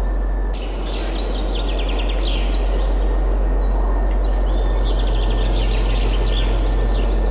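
Several songbirds singing in quick, rapid trills over a steady wind rush with a deep low rumble. The background dips briefly about half a second in.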